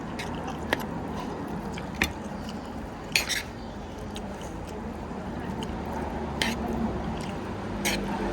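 Dishes and utensils clinking and knocking, about six sharp separate strikes with a doubled one about three seconds in, over a steady background hum.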